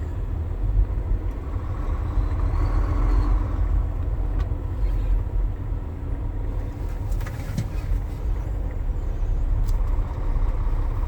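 Steady low rumble of a car's engine and road noise in freeway traffic.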